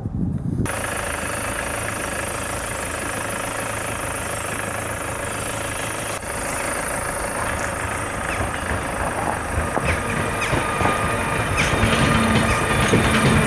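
Newag Griffin EU160 electric locomotive hauling a passenger train, approaching and passing a level crossing: a steady rumble that grows louder over the last few seconds, with rail clicks coming in from about ten seconds in.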